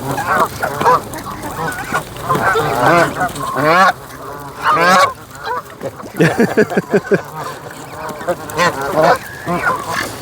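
A flock of Canada geese honking, with many calls overlapping and no pause.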